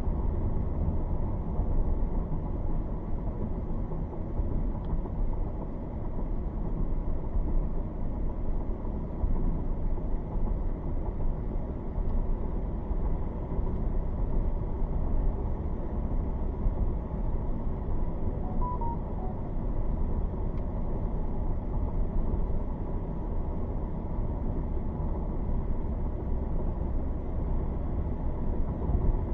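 Steady low rumble of a vehicle driving, heard from inside: road and engine noise with no sharp sounds.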